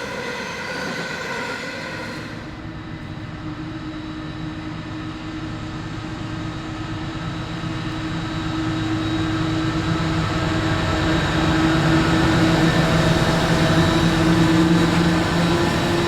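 Diesel-electric coal train locomotives running with a steady low engine drone. After an abrupt change about two and a half seconds in, the drone grows louder as the locomotives approach.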